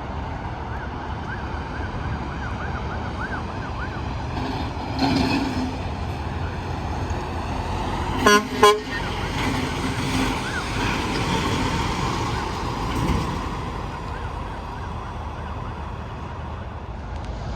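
Steady interstate traffic, trucks passing at highway speed, with two short horn blasts in quick succession about eight seconds in.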